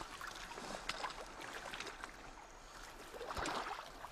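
Water sloshing and splashing, with scattered light knocks and drips and a louder splashing patch near the end.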